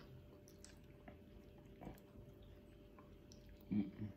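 Quiet chewing of a dried salt-and-chili mango snack, with faint wet mouth clicks, and a short low vocal sound near the end.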